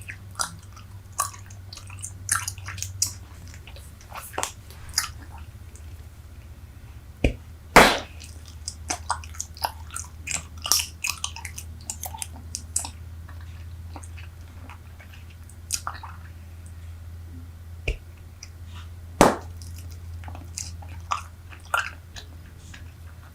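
Close-miked chewing of Super Bubble bubble gum, quite rubbery, with irregular wet smacks and clicks. Two much louder sharp snaps come about 8 and 19 seconds in.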